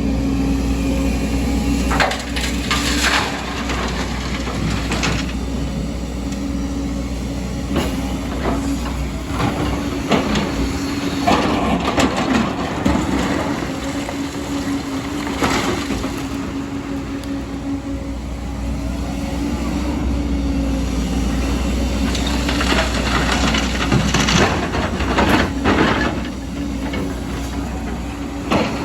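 Excavator's diesel engine running steadily, with repeated knocks and crunching of rock and soil against the bucket, sharp impacts spread throughout.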